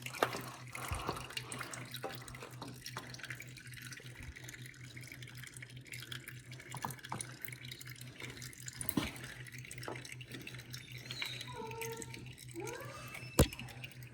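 Used engine oil dripping and trickling off the engine block into a drain pan after the oil filter has been pulled, small scattered drips over a steady low hum. One sharp click near the end.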